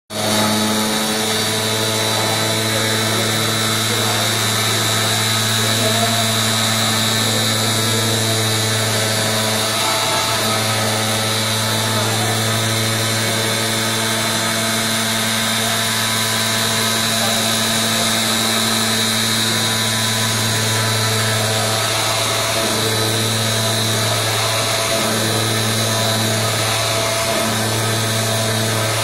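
CNC flatbed digital cutter running on gasket material: a steady machine hum with a hissing, whistling blower-like noise over it. The hum drops out for a moment about a third of the way in, and a few more times near the end as the machine's motion changes.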